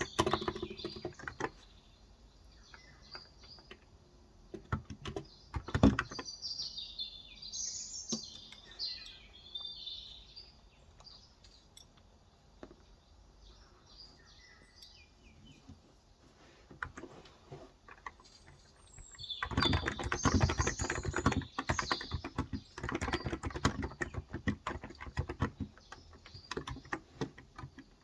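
Typing on a Cox Endeavor tenkeyless keyboard with 35 g electrostatic capacitive (non-contact) switches: a short burst at the start, scattered keystrokes, then fast steady typing from about 19 seconds in. Birds chirp in the background, mostly in the first half.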